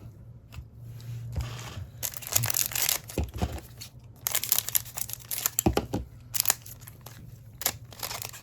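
Trading card pack wrapper torn open and crinkled in the hands, in irregular crackly bursts, the loudest about two seconds in and again from about four to six and a half seconds.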